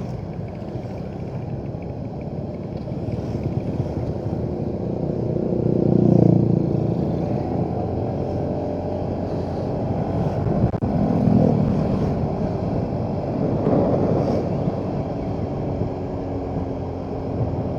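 Motorcycle engine running on the move, with its sound swelling louder a few times, about six, eleven and fourteen seconds in, as the throttle opens.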